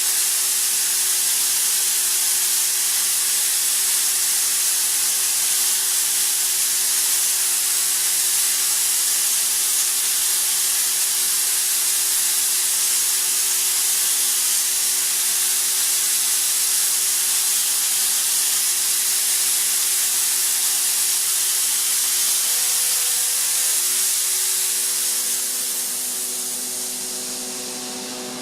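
Kaeser ESD 351 oil-flooded rotary screw air compressor running with a loud, steady hiss of rushing air over a faint hum. Near the end the hiss fades and a steadier machine hum with several tones comes through.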